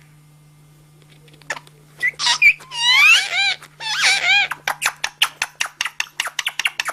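Parrot vocalizing after about a second and a half of quiet: squawky, whistle-like calls that glide up and down in pitch, then a rapid run of clicks, about six a second.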